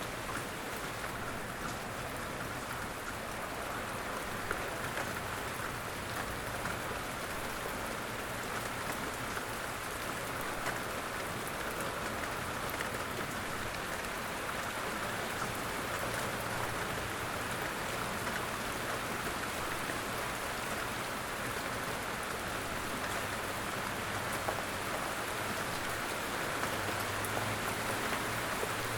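Steady light rain falling in woodland: an even patter of many drops. A low rumble builds near the end.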